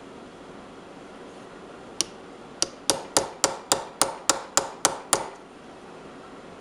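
Small hammer tapping a punch against a worn, seized screw in the band saw's blade-guide casting, to jar the screw loose. There is one tap, then about a dozen quick metallic taps at roughly four a second, stopping about five seconds in.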